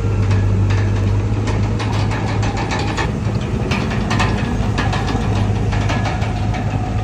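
Komatsu D31PX bulldozer's diesel engine running steadily, with irregular metallic clanks and knocks over it.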